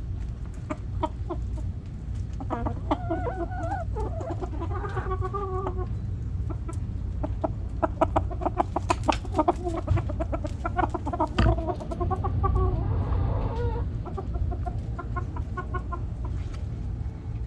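Backyard hens clucking, several birds calling in short, repeated pitched notes that come thickest in the middle. A steady low rumble runs underneath.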